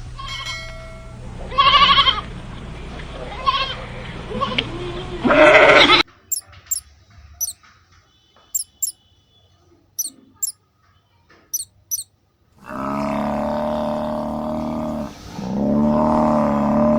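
A run of animal calls. First, about six seconds of mixed pitched calls. Then a few short, high chirps, several of them in pairs. Near the end come two long, wavering calls.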